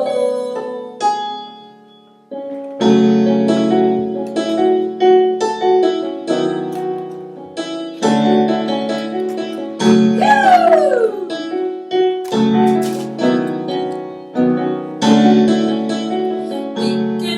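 Electronic keyboard playing an instrumental break of a children's song: sustained chords over a bass line, with a brief dip near the start and a single falling sliding note about ten seconds in.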